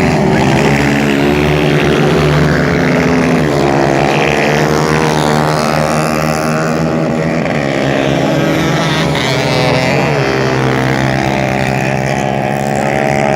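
Several 150 cc racing motorcycles running at high revs together, their engine notes overlapping, dipping and climbing again several times as they shift gears.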